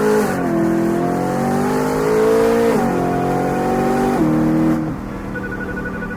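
BMW E90 M3's V8 running with its exhaust muffler removed, accelerating through the gears: the pitch climbs and drops sharply at three upshifts, then holds a steady lower tone near the end.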